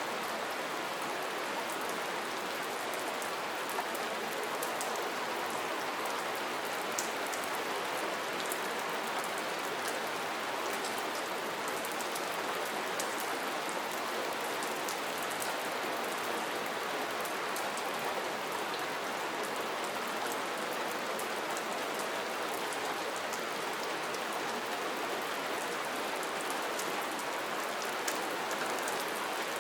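Steady, even rainfall with scattered distinct drop ticks on top.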